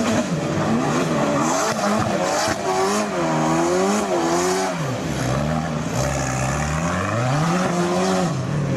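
A sports car engine revved hard and unevenly through a power slide on wet tarmac, its note swinging up and down, with the hiss of spinning tyres on the wet road. Near the end a deeper engine note climbs steadily as a car accelerates away, then drops off.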